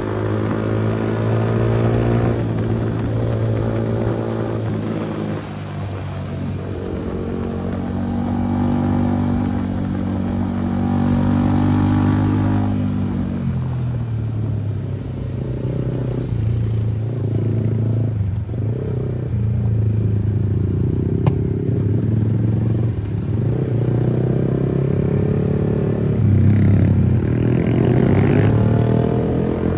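Kawasaki ZX-10R's inline-four engine running under way, its pitch holding, then falling about halfway through, and climbing again near the end as the revs change.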